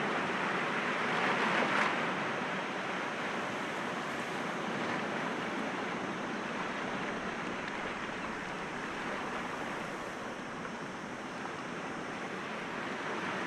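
Sea waves breaking gently against rocks, a continuous wash of surf that swells with one louder break about two seconds in, then settles.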